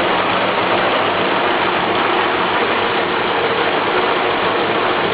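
GAZ-67's four-cylinder side-valve engine running steadily and evenly.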